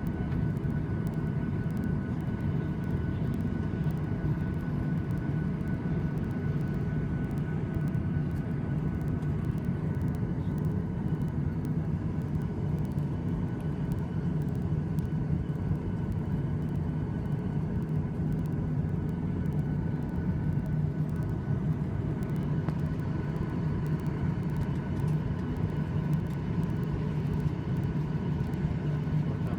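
Steady cabin noise of an airliner taxiing after landing: a low engine drone and rumble with a faint steady whine over it.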